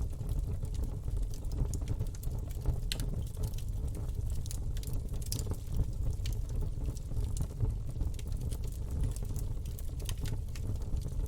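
Campfire burning: a steady low rumble of flames with irregular sharp crackles and pops throughout.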